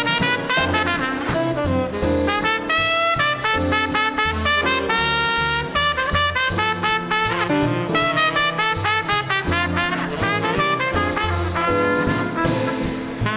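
Small swing band playing an up-tempo instrumental chorus, a trumpet carrying the melody over piano, double bass walking in steady beats and drums.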